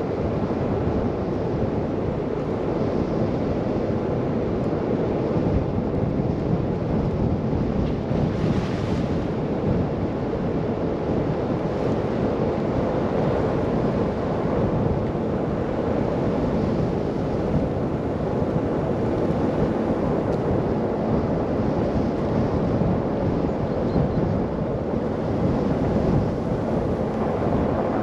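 Blizzard wind blowing hard on the microphone over the rumble of a car driving through snow: a dense, steady low rush. A brief brighter hiss comes about eight seconds in.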